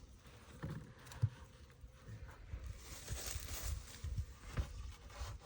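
Footsteps and scattered low thuds and knocks as wooden beehive boxes are carried and set in place, with one sharp knock about a second in.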